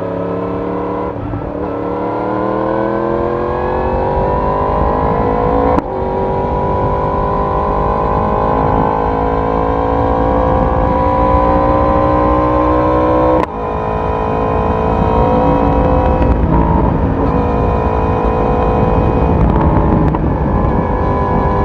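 Yamaha YZF-R1 inline-four sportbike exhaust pulling through the gears on the road. The engine note rises, then cuts briefly for a quick upshift about six seconds in and again about thirteen seconds in, then settles into a steadier drone. Low wind and road rumble run underneath.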